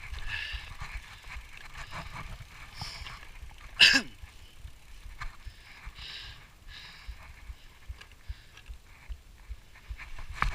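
Scuffing and clatter of mountain bikes being pushed up a steep trail, with one short, loud squeal that drops in pitch about four seconds in.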